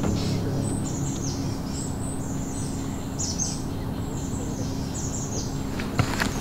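Small birds giving many short, high, thin chirps in quick succession for most of the stretch, over a steady background hiss.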